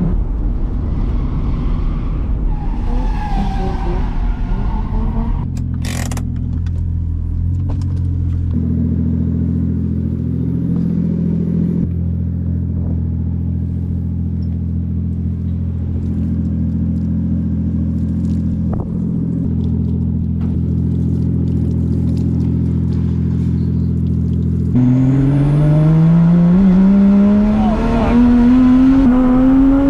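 Drift car's engine running at a steady speed, then accelerating about 25 seconds in, its pitch climbing for several seconds before dropping near the end.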